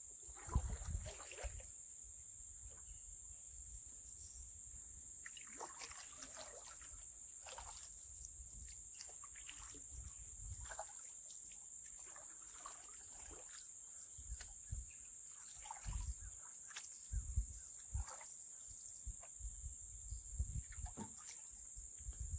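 Canoe being paddled: water swishing and trickling off the paddle, with scattered light knocks on the hull. A steady high-pitched insect chorus runs underneath.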